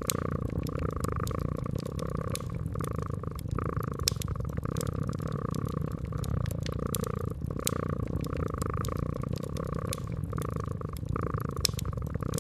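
Cat purring steadily, its purr swelling and easing about once a second. A wood fire crackles with scattered sharp pops, a few of them louder.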